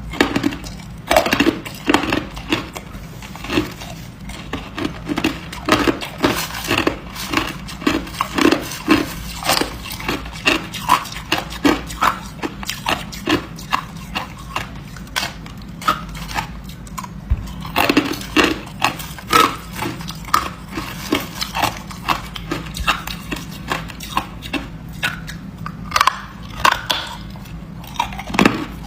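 Ice being bitten and chewed: a continuous run of crisp, irregular crunches, several a second, with short pauses between bites.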